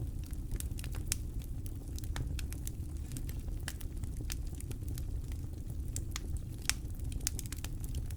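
Campfire crackling: irregular sharp pops and snaps from the burning wood, a few louder ones standing out, over a steady low rumble.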